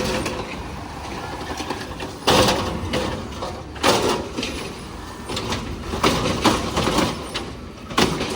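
Diesel engine of an Autocar ACX refuse truck running over a steady low idle and revved in several short bursts, about four times.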